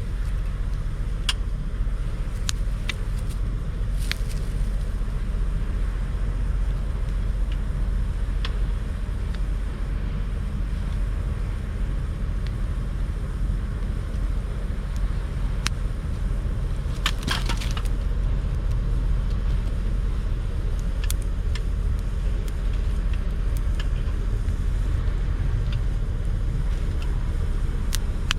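Campfire of dry branches and driftwood crackling, with scattered sharp pops and a brief burst of crackles about two-thirds of the way through, over a steady low rumble.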